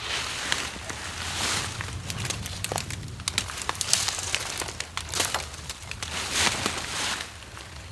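Crinkling and rustling, with many small sharp crackles, coming in repeated swells about half a second long.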